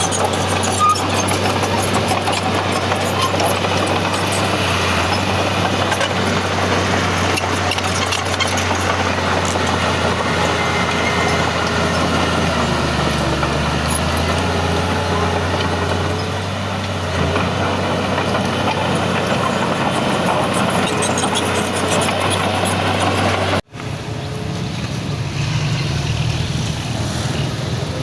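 Heavy diesel earthmoving machinery running steadily with a constant low engine drone. It cuts off abruptly about 24 seconds in and resumes as a quieter, lower engine sound.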